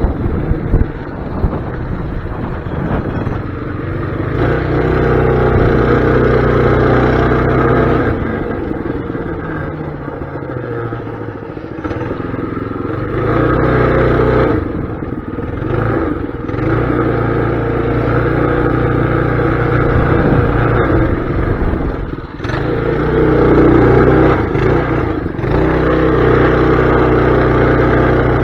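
Mini bike's small engine running under riding, its speed rising and falling as the throttle is opened and eased off, with a brief drop about two-thirds of the way through.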